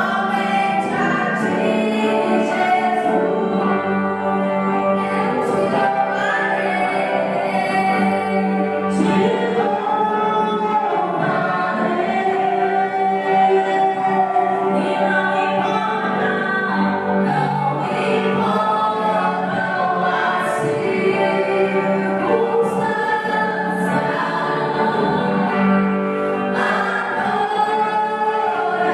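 Choir singing gospel worship music.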